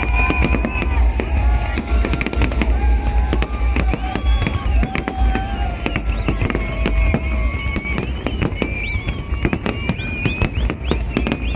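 New Year fireworks going off in rapid succession: a dense run of sharp bangs and crackles over a continuous deep rumble.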